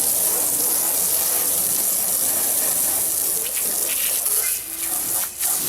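Steady hiss of water spraying from a hose onto a pickup truck during a wash-down, briefly dropping off twice near the end.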